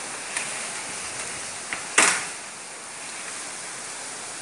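Steady rush of heavy storm rain, with a sharp bang about two seconds in and a couple of lighter knocks before it.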